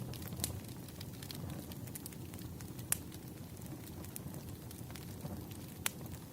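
Fireplace fire burning with a steady low rumble and scattered sharp crackling pops, three louder ones spread through.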